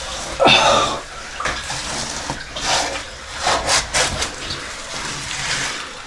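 Cave water splashing and sloshing in a string of uneven bursts as a person moves through it, the loudest splash about half a second in.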